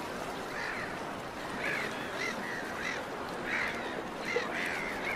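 Birds calling again and again, about nine short arching cries in quick succession over a steady background murmur.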